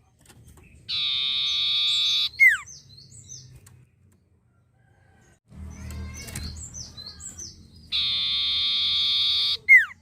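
Golden-bellied gerygone (sirtu) song: thin, high down-slurred notes, twice broken by a long buzzing trill held for over a second, each trill ending in a sharp, loud downward-sweeping whistle.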